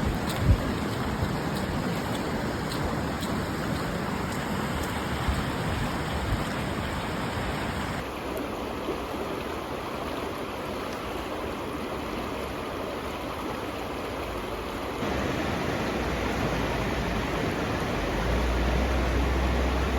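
River water rushing steadily. The sound changes abruptly in character about eight seconds in and again about fifteen seconds in, and a low rumble joins it near the end.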